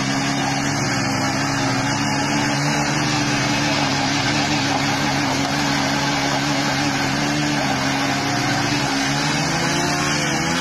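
Two small single-cylinder four-stroke motorcycle engines, a Bajaj Boxer 100 cc and a TVS Star City 110 cc, running hard under heavy load as the bikes pull against each other on a tow rope. A loud, steady drone with almost no change in pitch.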